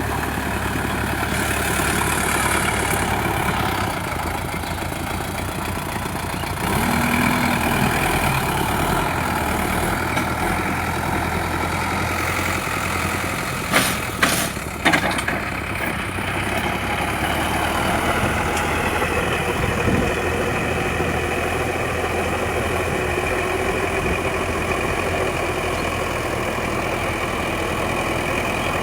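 Sonalika DI 750 tractor's diesel engine running steadily, with three sharp knocks in quick succession about halfway through.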